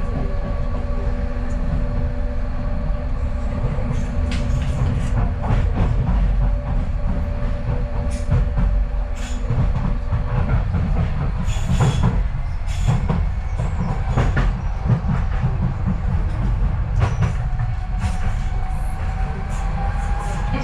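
Docklands Light Railway train heard from inside the carriage: a low rumble with scattered rail clicks, and a motor whine that rises in pitch over the last several seconds.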